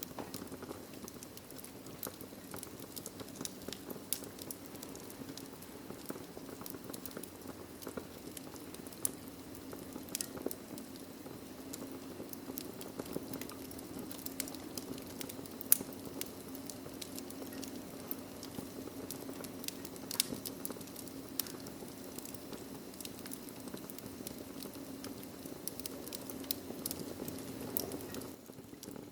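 Wood fire in a fireplace crackling, with frequent sharp pops and snaps over a low steady hiss; the steady background falls away shortly before the end.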